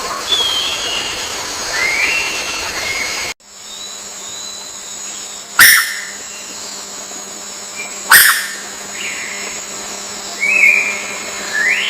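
Short rising bird chirps and whistles over a steady hiss, the background changing abruptly a little after three seconds in. Two sharp, loud snaps about two and a half seconds apart are the loudest sounds.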